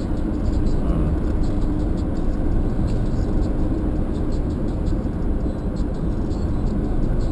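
Car driving: steady low road and engine rumble with a constant hum.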